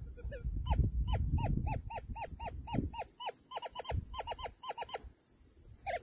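A bird calling a fast series of short, nasal, hooked notes, about five a second, with brief pauses between runs. A low rumbling noise underlies the first couple of seconds, and there is a low thump about four seconds in.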